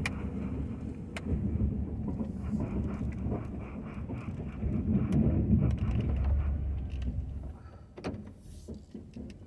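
Ford F-250 pickup running while plowing snow: a low engine rumble that swells and eases, with a few sharp knocks, and it drops off in the last couple of seconds.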